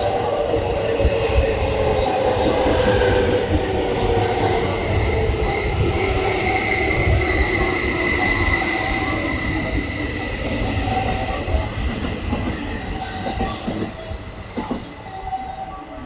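Electric train slowing into a station: its motor whine falls steadily in pitch over several seconds, over a rolling rumble, with high-pitched squealing from brakes and wheels. The sound drops away near the end as the train comes to rest.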